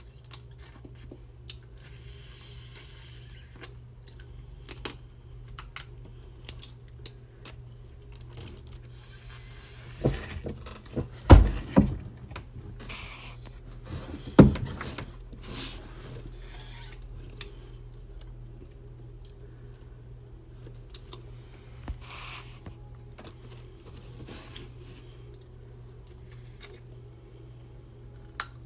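Close-miked eating and handling of a seafood boil: scattered wet clicks, crackles and chewing, with a few loud sharp cracks about ten to fifteen seconds in, over a steady low hum.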